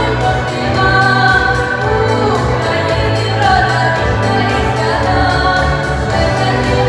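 A song with sustained sung vocal lines over instrumental backing with a steady beat and bass.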